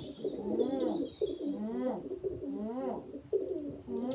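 Tumbler pigeons cooing in a loft: a run of repeated coos, each rising and falling in pitch, with a few high chirps near the end.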